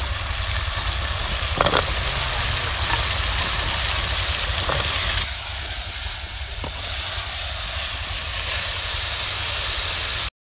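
Potatoes frying in hot oil with spiced onion-tomato masala in a cooking pot: a steady sizzle, with a few short knocks about two, five and seven seconds in.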